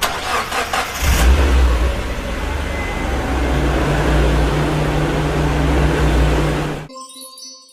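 Car engine turning over, catching and then running with revving, a loud steady low drone. A short chime sounds near the end.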